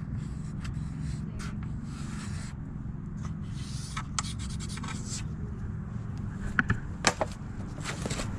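Marker scratching in short strokes across sheet metal, outlining a skid plate shape, with a few sharp clicks about two-thirds of the way in. A steady low hum runs underneath.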